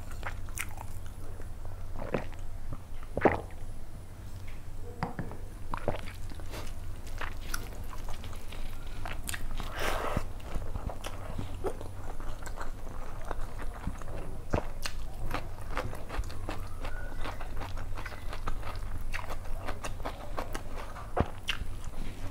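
Close-miked eating sounds: a person chewing rice and chicken curry eaten by hand, with scattered short clicks and crunches, over a steady low hum.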